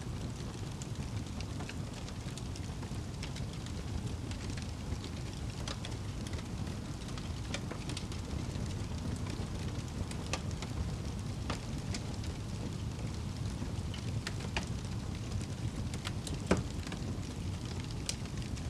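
Wood fire crackling, with scattered sharp pops over a steady low rumble; one pop near the end is louder than the rest.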